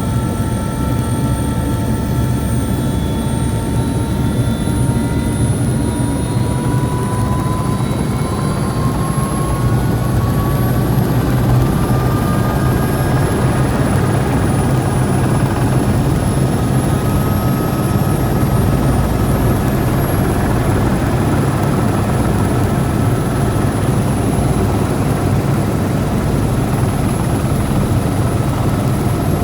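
Helicopter engine and rotor running, a loud steady drone with a whine that rises in pitch over the first dozen seconds and then holds level.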